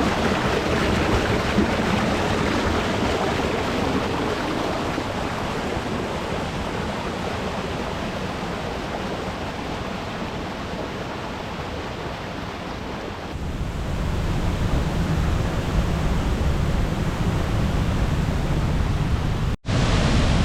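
Waterfall rushing: a steady, dense roar of falling water. About two-thirds of the way through a deeper rumble grows louder, and the sound breaks off for an instant near the end.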